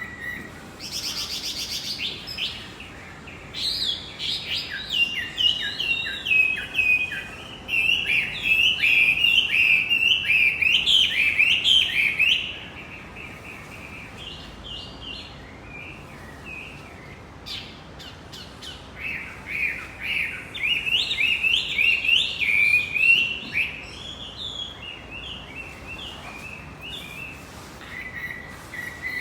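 Male wambi songbird singing: long runs of quick, chattering notes sweeping up and down, in two loud bouts separated by a quieter stretch of sparse calls.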